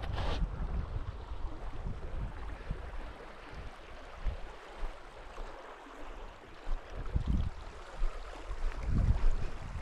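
Small seasonal stream running with a steady rushing hiss, with a few low thumps on the microphone near the end.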